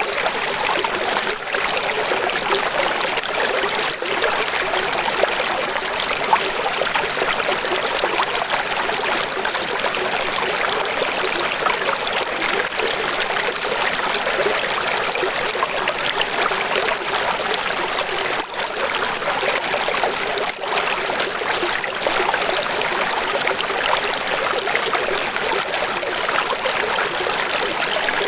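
Steady rushing water, as of a stream or waterfall: an even hiss with little deep rumble, unchanging throughout.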